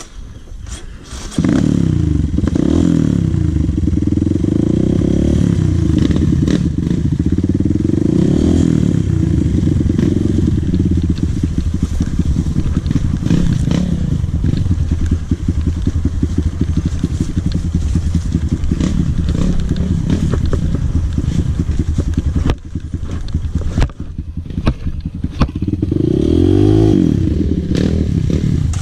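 Dirt bike engine running loud, revving up and down. It cuts in about a second in, drops back briefly a few seconds before the end, and revs up and down again near the end.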